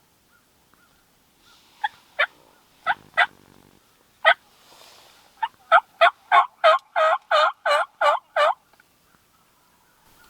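Turkey yelping: a few spaced yelps, then a run of about ten evenly spaced, louder yelps at roughly three a second that stops suddenly.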